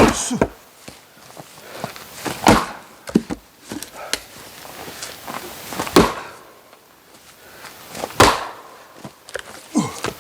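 Oak firewood being split by hand: four heavy chopping blows a few seconds apart, with lighter knocks of wood between them.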